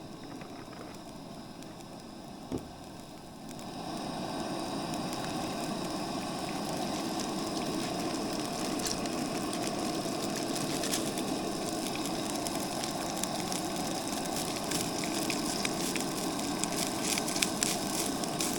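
Rice frying in hot oil in a pan. There is a quiet sizzle and one knock, then about three and a half seconds in the sizzle jumps louder as the rice goes in, with crackling pops that grow more frequent toward the end.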